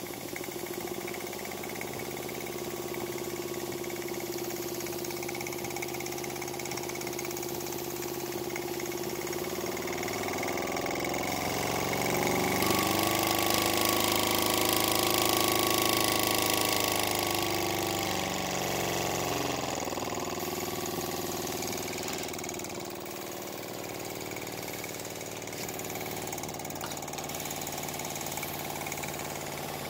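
Small homemade wobbler (oscillating-cylinder) steam engine running steadily under steam. About ten seconds in it speeds up and grows louder with a hiss of steam, then slows back to its earlier pace by about twenty seconds in.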